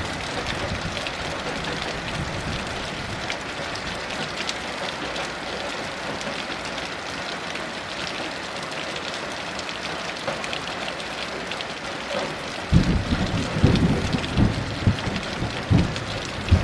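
Steady heavy rain, joined about three-quarters of the way through by low, rolling thunder that rumbles in uneven peaks.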